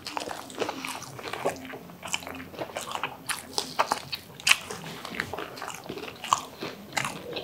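Biting and chewing of fried chicken and a sandwich by two people, a string of irregular wet clicks and light crunches.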